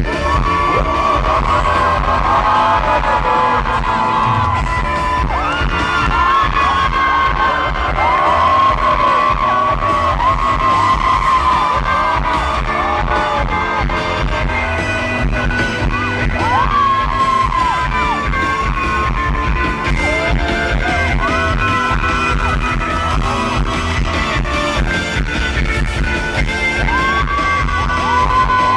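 Live rock band playing loud amplified music with drums and guitar, recorded from within the audience, with singing and yells over it.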